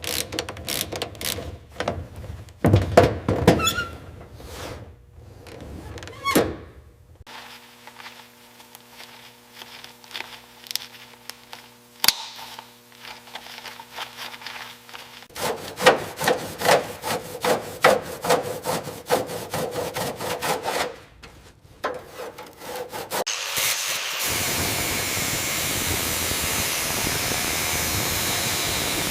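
A sequence of hand-work sounds from a car restoration: knocks and scraping strokes at first, a steady hum through the middle, then fast rubbing strokes. Near the end a steady, even hiss takes over.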